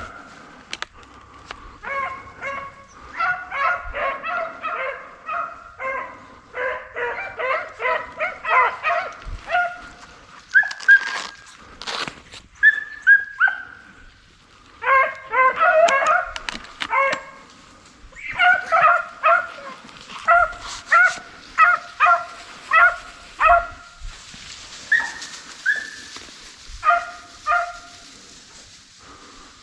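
Deer hounds baying on a hot track as they run a buck: rapid runs of short barks broken by a few longer, falling bawls.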